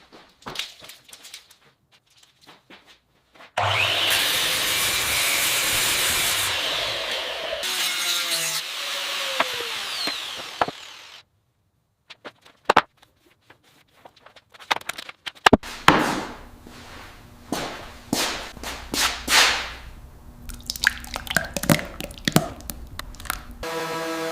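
Woodworking tool sounds. First come scattered light taps, then a power tool runs loudly for about seven seconds and stops. After a brief silence there are knocks and scraping strokes on wood over a low hum.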